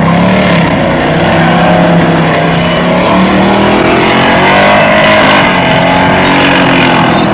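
G-body Chevrolet Monte Carlo's engine held at high revs during a burnout, its pitch wavering up and down as the rear tires spin.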